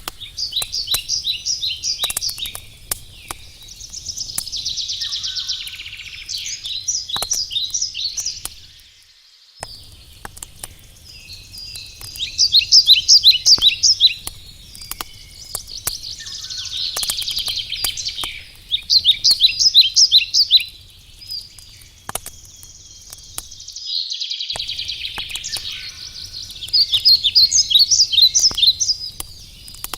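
A songbird singing the same short phrase again and again, each a run of quick, sharp high notes, every few seconds, over the light crackle and scattered pops of a wood campfire.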